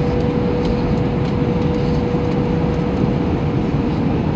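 Airbus A321 cabin noise: a steady, loud rumble of engines and airflow, with one steady engine whine running through it.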